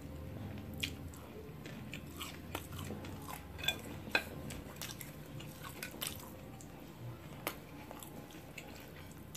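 Close-up eating sounds: chewing and biting with small crunches and wet clicks, scattered irregularly, along with light clicks of wooden chopsticks picking up noodles from a plate.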